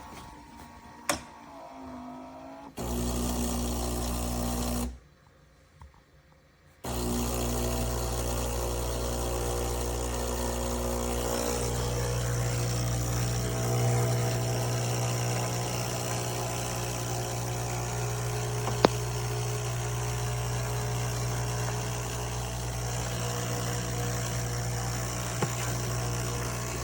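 Philips Series 3300 fully automatic espresso machine running with a steady mechanical hum. It runs briefly, stops for about two seconds, then starts again and runs on, with a sharp click partway through.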